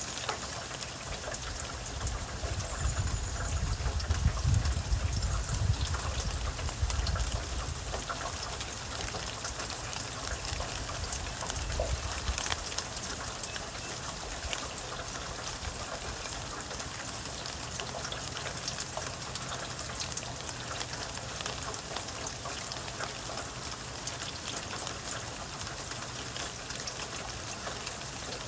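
Steady rain falling, with many small drop ticks. A low rumble swells and fades between about two and eight seconds in.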